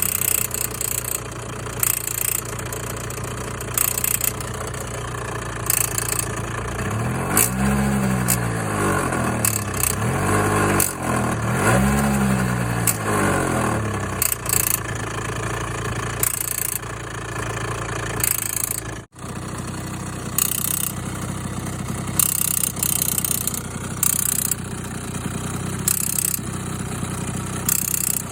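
Honda AF27 Super Dio scooter's two-stroke engine idling with a loud clicking noise, revved up and back down three times about a quarter to halfway in. The clicking persists at idle despite a carburettor clean, new plug and engine swap; the owner suspects the reed valve, crank oil seals (air leak) or clutch.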